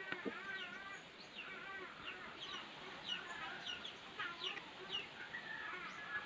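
Birds calling in the background: many short, falling chirps repeated every fraction of a second, over lower wavering calls.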